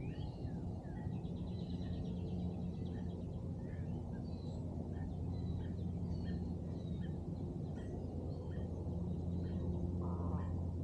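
Several small birds chirping and calling, with a quick trill about a second in, over a steady low hum.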